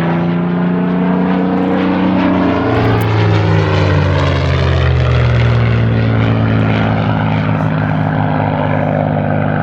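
Propeller fighter's Rolls-Royce Merlin V12 engine running loud as the aircraft passes, its pitch dropping about three seconds in, then holding a steady lower drone.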